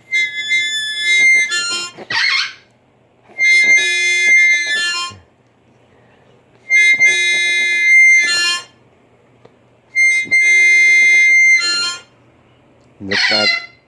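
Blues harmonica played in four phrases of about two seconds each, each leaning on one held high note, with short pauses between. Two brief harsh parrot squawks break in, about two seconds in and near the end.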